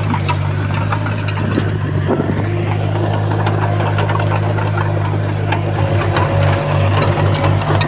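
Diesel engine of heavy earthmoving equipment running steadily, with scattered metallic clicks and rattles. The engine note starts to pulse about six seconds in.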